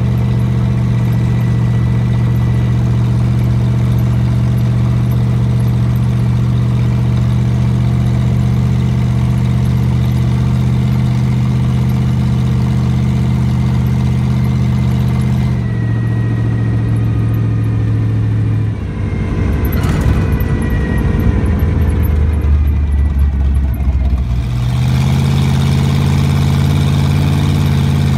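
Rat rod's engine heard from inside the car as it drives: a steady exhaust drone that drops in pitch about halfway through, turns into a louder rough rumble for a few seconds, then steadies again near the end.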